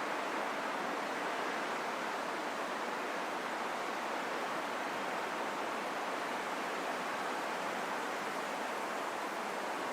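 Steady rain falling, an even hiss with no single drops standing out and no change in level.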